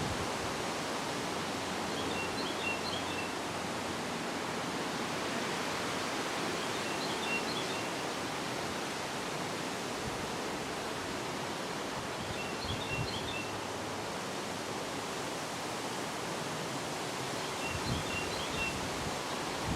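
Wind rustling through leaves, a steady hiss. A faint, high chirping phrase of a few quick notes comes four times, about five seconds apart.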